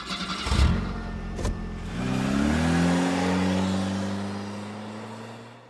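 Car engine: a noisy start with two heavy thumps in the first second and a half, then the engine note climbs about two seconds in and holds nearly steady before fading out near the end.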